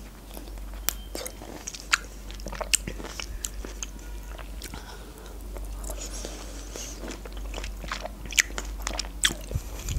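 A pink grapefruit segment being bitten and chewed close to the microphone, with many scattered sharp mouth clicks.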